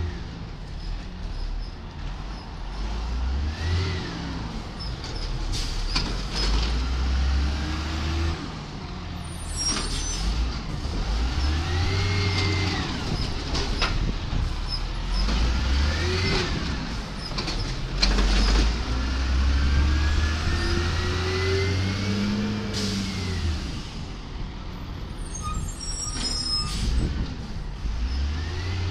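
Cat 3126 diesel of a 1999 Peterbilt 320 Amrep side-loader garbage truck, its pitch rising and falling over and over, with several sharp bangs and a couple of short air-brake hisses.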